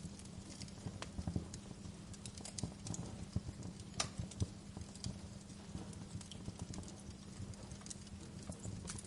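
Wood fire in a fireplace crackling: irregular pops and snaps, a sharper pop about four seconds in, over a steady low rumble of the flames.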